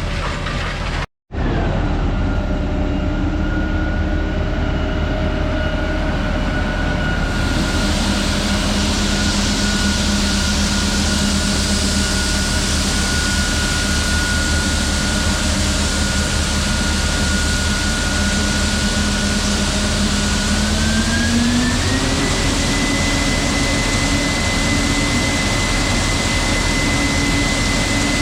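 Heavy farm machinery running steadily: a low hum with a high whine over dense mechanical noise. About 21 seconds in, the hum and whine both rise in pitch as the machine speeds up, then hold at the higher pitch. A brief cut to silence comes about a second in.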